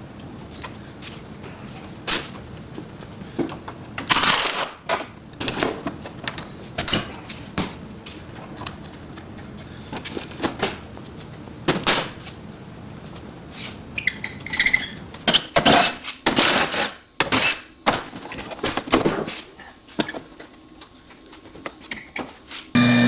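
Hand tools and metal parts clinking and clanking at irregular intervals, some strikes ringing briefly. Music starts right at the end.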